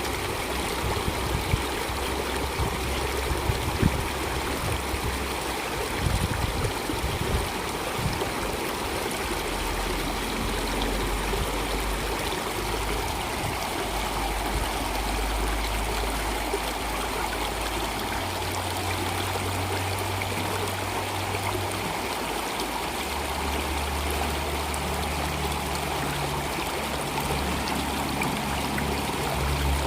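Stream water flowing and trickling steadily, with a few louder splashes in the first several seconds. A low hum runs underneath and changes pitch every few seconds.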